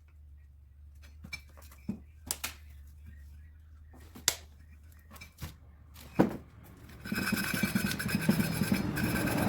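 A few sharp metal clinks and knocks, like tools being handled on metal parts, then about seven seconds in a motor starts and keeps running loud and steady with a rough, fast pulse.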